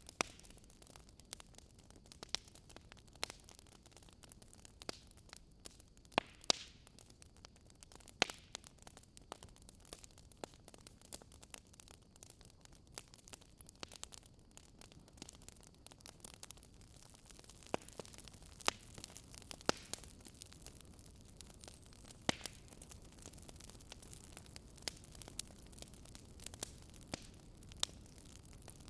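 Campfire of burning wood crackling: irregular sharp pops and snaps every second or two, a few louder than the rest, over a faint steady hiss.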